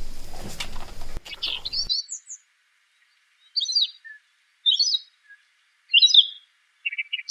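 A small bird chirping in short, high phrases, about five of them, roughly a second apart. A noisy background under the first two seconds cuts off abruptly, leaving only the chirps.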